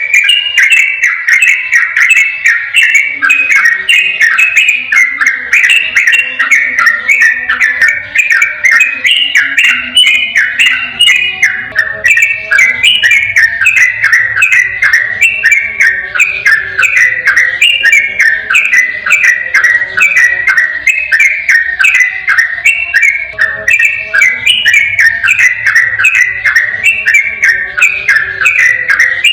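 Sooty-headed bulbul (trucukan) singing in fast, unbroken rolling phrases, a continuous chain of short clear whistled notes with no pauses.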